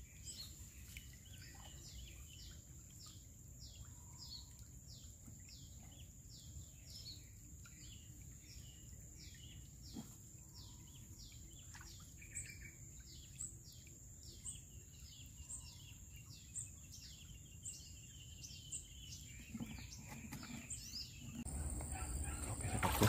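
A bird calling over and over, a short high chirp falling in pitch about twice a second, over a steady thin high-pitched whine.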